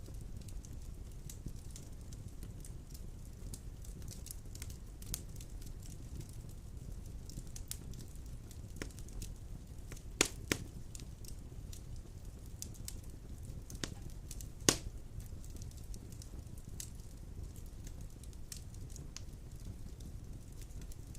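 Large logs burning in a fireplace: a steady low rumble of flame with scattered crackles, and a few sharp pops, a pair about ten seconds in and the loudest about fifteen seconds in.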